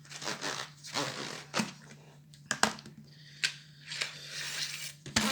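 A cardboard box of welding rods being opened by hand: tearing and rustling of cardboard and packaging, with several sharp clicks and knocks.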